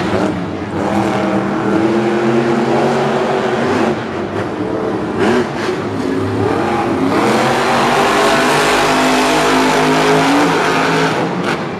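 Monster truck supercharged V8 engines running hard during a race, revving with pitch rising and falling. The sound is loudest and fullest in the last third.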